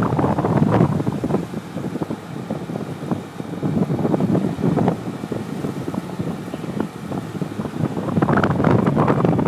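Wind buffeting the microphone of a rider on a moving motorbike, surging in gusts, loudest about a second in and again near the end.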